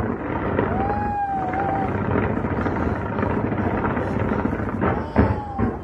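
Fireworks barrage: a dense, continuous rumble of rapid bangs and crackles. Two short whistles, about a second in and near the end, and a sharper, louder bang about five seconds in.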